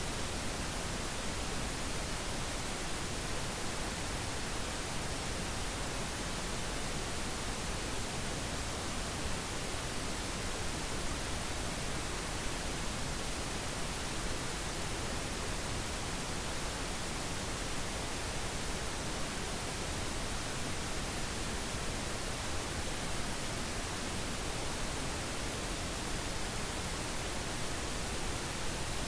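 Steady, unchanging pink noise: an even hiss across the whole range with no tones or events.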